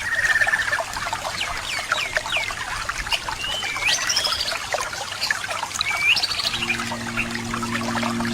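Birds chirping and calling over trickling water, many short rising and falling notes. Steady low tones come in about two-thirds of the way through.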